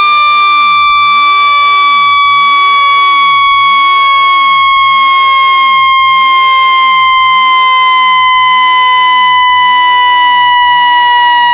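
Synthetic speaker-cleaning tone, played to shake water and dust out of a phone speaker. It is loud and steady with a buzzy edge, and slowly glides down in pitch.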